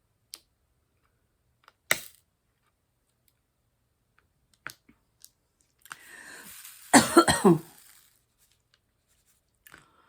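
A few faint clicks, then a person coughs about seven seconds in, after a breathy intake.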